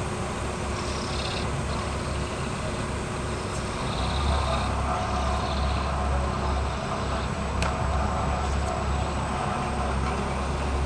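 Heavy diesel engine running steadily at a worksite, its low rumble getting louder about four seconds in.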